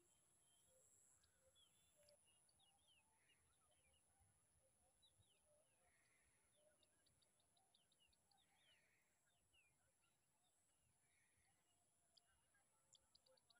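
Near silence: faint rural ambience with scattered short bird chirps, and a quick run of ticking calls about halfway through and again near the end.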